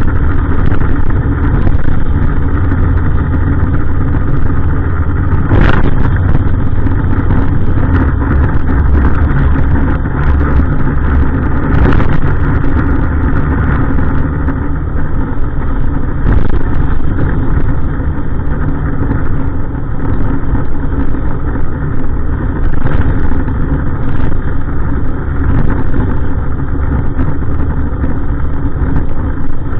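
Heavy truck engine running steadily and loudly, with a few sharp knocks or clanks scattered through.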